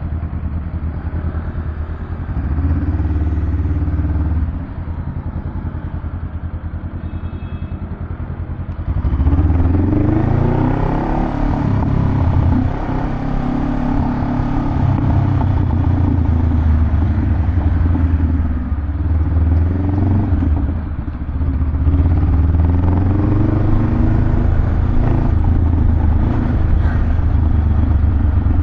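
Honda Rebel 500's parallel-twin engine through a Vance & Hines exhaust, running at a low, pulsing idle with a short rev about two and a half seconds in. From about nine seconds in it runs louder, its pitch rising and falling again and again as it is revved or ridden through the gears.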